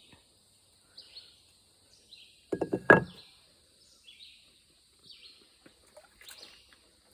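Several quick knocks close together, about two and a half seconds in, with faint outdoor background around them.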